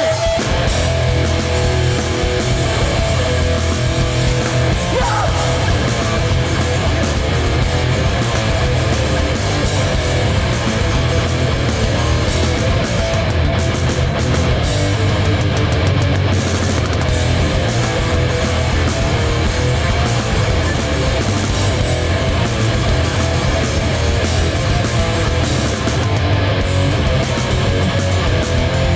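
A hardcore punk band playing live, loud and steady, led by electric guitars.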